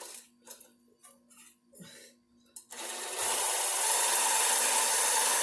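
A few light clicks of tools, then an aerosol can of penetrating spray hissing steadily for about three seconds, sprayed onto seized nuts to free them.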